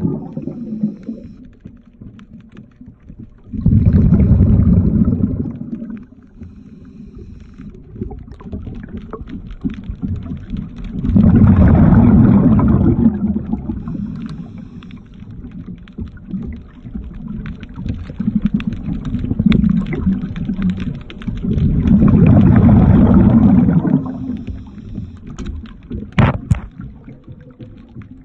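Underwater, a scuba diver's exhaled bubbles rumble up from the regulator in three bursts roughly every nine seconds, with small clicks and knocks between breaths and one sharp knock near the end.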